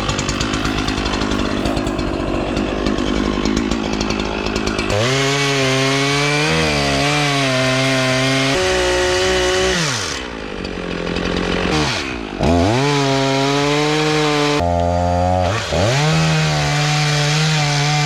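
Chainsaw running: a rough, rapid rattle for the first five seconds, then a steady high-pitched whine at full throttle. The pitch falls and climbs back three times as the throttle is let off and opened again.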